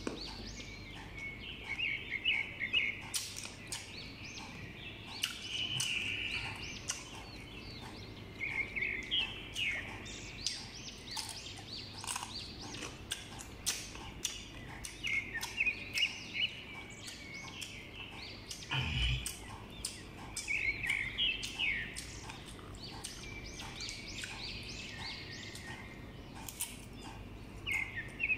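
Close-up eating of crisp, sour green Indian mango slices: many short crunches and wet mouth clicks in an uneven run.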